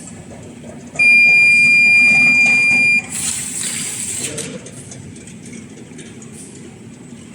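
A loud, steady, high-pitched electronic beep held for about two seconds, then a short burst of hiss.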